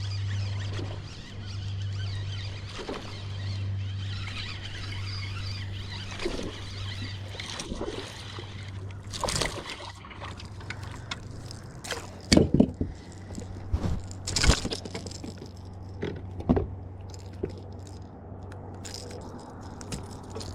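Water splashing and sloshing at a kayak, with a run of sharp splashes from a little before halfway, the loudest two about two seconds apart. A steady low hum runs under the first half.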